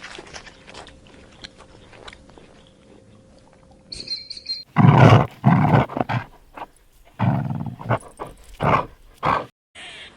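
Lion roaring: after a few seconds of faint background sound, a series of loud, deep calls starts about halfway through, the later ones shorter, then stops abruptly.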